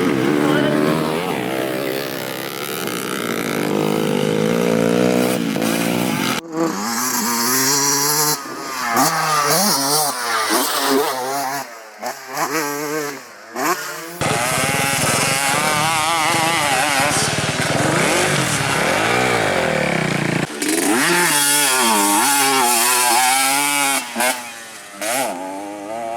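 Two-stroke dirt bike engines revving hard and falling back, the pitch climbing and dropping again and again through throttle and gear changes. The sound cuts abruptly from one pass to another several times.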